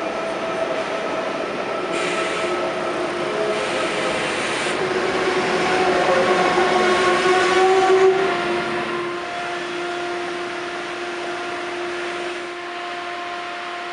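ICE high-speed train moving along a station platform, with steady whining tones and two short hisses in the first few seconds. It grows louder to a peak about eight seconds in, then eases to a quieter steady whine.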